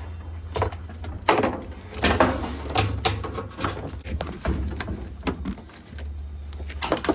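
Irregular clicks and knocks of plastic and metal parts as a Samsung washer's rear suspension rod is worked loose from its clip inside the cabinet.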